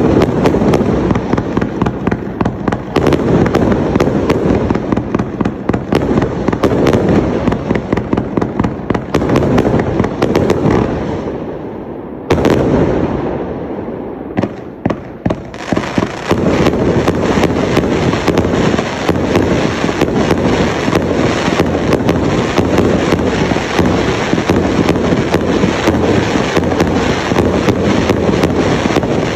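Firework display cake (an 18-shot combination set) firing: a dense, rapid stream of bangs and crackling. Around ten seconds in it thins and fades, then there is a short gap with a few separate pops, and a new dense barrage starts about sixteen seconds in.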